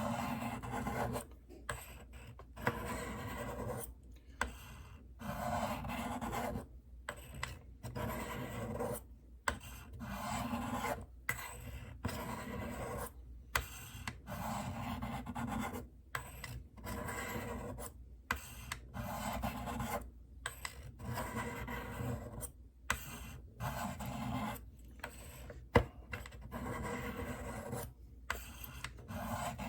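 Knife blade drawn down the flat faces of the fine ceramic rods of a Spyderco Tri-Angle Sharpmaker, one rasping stroke after another about once a second with short pauses between, alternating sides of the blade. These are the fine-stone finishing strokes of the sharpening.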